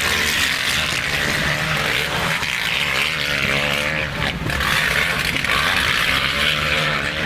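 Motocross bike engines running and revving, their pitch rising and falling, over a steady rushing noise.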